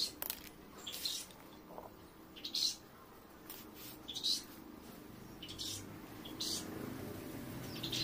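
Small birds chirping: short, separate chirps roughly once a second at irregular intervals, over a faint steady low hum.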